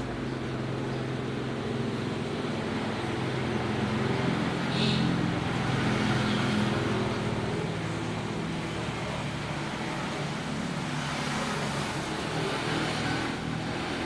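Vehicle engine running steadily, growing louder about four to six seconds in and then easing off.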